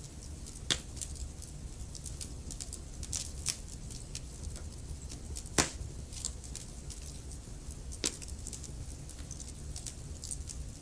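Wood logs burning in a fireplace, crackling steadily over a low rumble of the flames. Sharper pops stand out near the start, in the middle (the loudest) and again at about eight seconds in.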